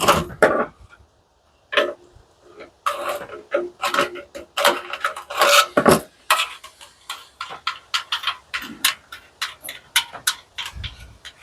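Metal clicking, clinking and scraping of hand tools working loose the nuts and screws on an industrial coffee machine's metal parts. Irregular clicks come in quick runs, with a few short metallic rings in the first half.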